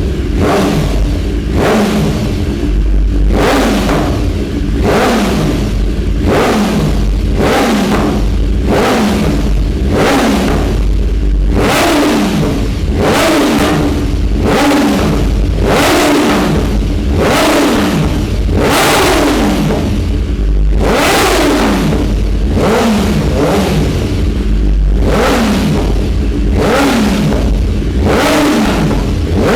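BMW S1000R's inline-four engine revved in short throttle blips about once a second, each rising sharply and falling back toward idle, through an exhaust with the catalytic converter replaced by a decat pipe and an SC Project slip-on.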